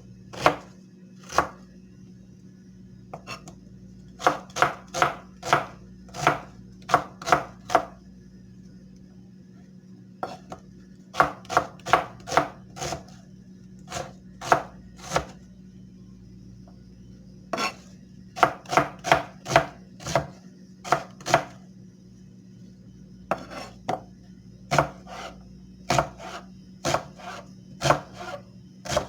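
Knife blade making quick runs of short, sharp strokes, about two or three a second, in groups of four to eight with pauses of a second or two between groups. A faint steady hum sits underneath.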